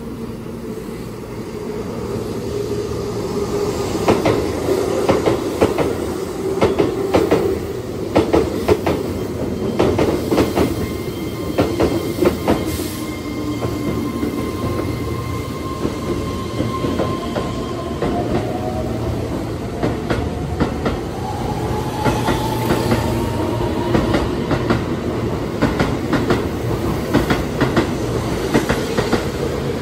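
Keihan 3000 series electric train pulling out of a station and passing close by: wheels clack over the rail joints in quick groups, and a whine climbs in pitch through the middle as it picks up speed.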